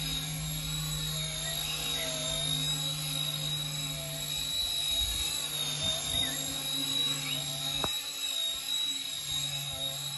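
RC Era C189 miniature RC helicopter in flight: a steady high-pitched motor whine over a lower rotor hum. The lower hum fades out briefly near the end and comes back, and there is one sharp click about eight seconds in.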